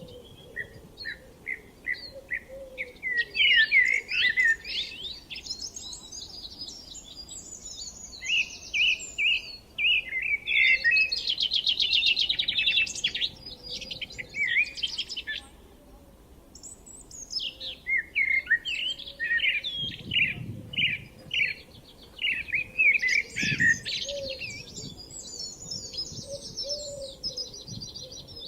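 Songbirds singing, several at once, in quick runs of chirps and trills. Their phrases overlap in two busy spells, with a brief lull about midway.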